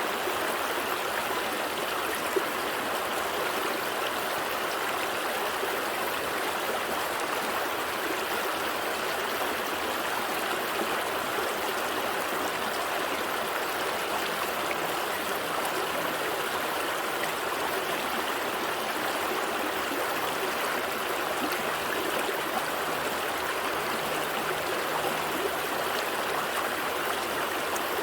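Gentle stream flowing steadily, a continuous even rush of water with no breaks.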